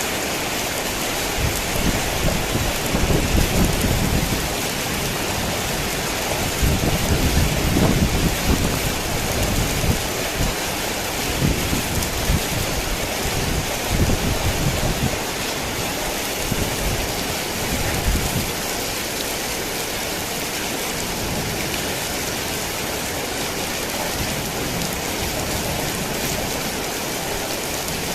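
Heavy rain falling steadily, with thunder rumbling low underneath for the first two-thirds, swelling twice and dying away about eighteen seconds in.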